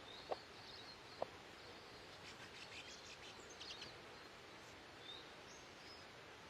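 Faint outdoor background hiss with scattered high, short bird chirps, clustered in the middle, and two short clicks in the first second and a half.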